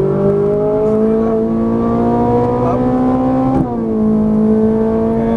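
Ferrari 458 Italia's 4.5-litre V8 accelerating, its pitch climbing steadily, then dropping sharply about three and a half seconds in as it shifts up a gear before climbing again.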